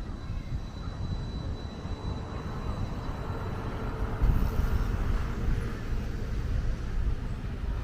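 Outdoor city street ambience: a steady rumble of passing traffic that grows louder about four seconds in.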